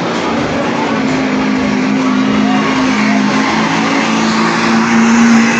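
Truck engine running at high, steady revs, with a wide rushing noise over it.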